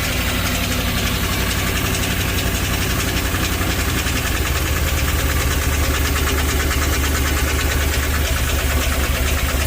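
GM 5.3-litre V8 running at a steady idle with a fast, even knock. It is the sound of the engine's internal failure: metal was later found in the oil pan, which the owners put down to, more than likely, a failed connecting rod.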